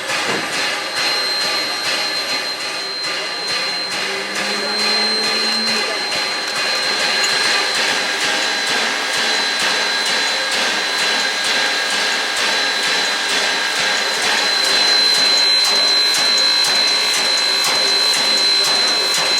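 Steam locomotive venting steam in a loud, steady hiss with a thin high ringing tone in it, growing a little louder partway through.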